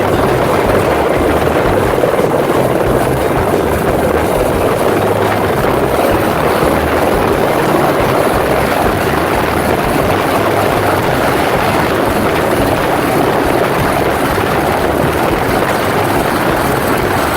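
Helicopter running close by, a loud steady rotor and turbine noise with a low repeating beat from the blades.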